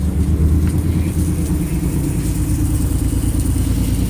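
Rebuilt 455 V8 engine running steadily at idle.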